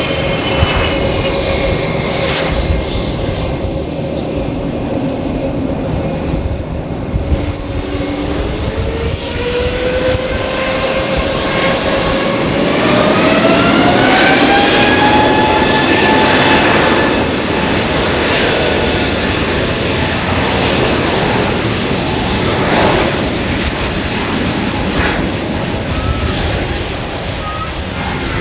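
Aircraft engines running with a steady rumble, and a whine that rises in pitch over several seconds from about eight seconds in, then holds high: the engines spooling up.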